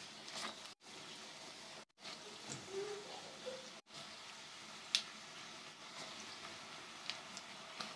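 Flour-coated potato fingers frying in hot ghee: a faint steady sizzle with a few small crackling pops, broken by a few brief dropouts.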